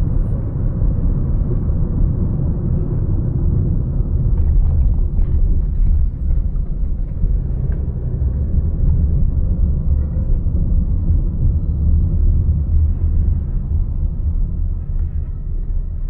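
Steady low rumble of a car driving, road and engine noise, easing off near the end.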